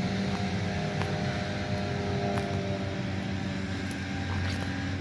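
An engine running steadily, a low hum with a few faint, light clicks over it.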